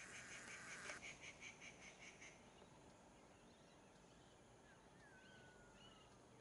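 Faint outdoor birdsong: a bird calls with a rapid pulsing call, about five pulses a second, that stops a little over two seconds in. A brief hiss sounds in the first second, and later a thin whistle glides slowly downward among a few soft chirps.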